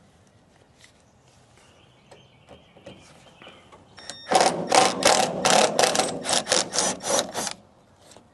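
Power screwdriver running in a quick pulsing run of about five pulses a second for some three seconds, backing out the screws that hold a chrome trim strip, then stopping.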